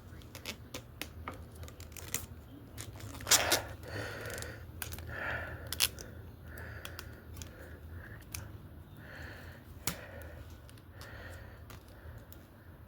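Scattered small clicks, crackles and rustles of close-up handling, with a louder crackle about three seconds in and single sharp clicks near six and ten seconds, over a steady low hum.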